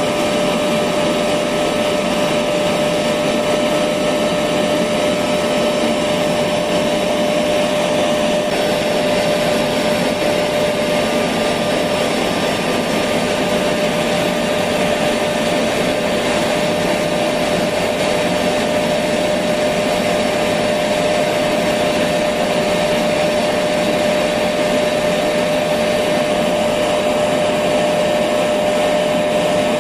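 Electric vacuum cleaner running continuously at a steady pitch, a constant whine over rushing airflow with no change in load.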